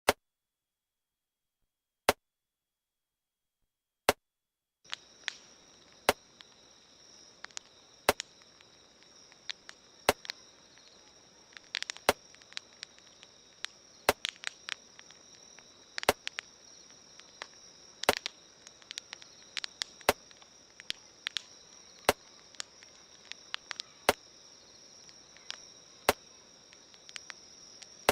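A sharp beat every two seconds, the mixed-in heartbeat sound. About five seconds in, crickets start chirring steadily and a campfire crackles and pops irregularly.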